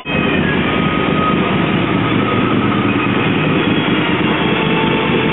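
Hyosung GV250 Aquila's 250 cc V-twin running steadily through loud aftermarket custom exhaust pipes, a dense even rumble.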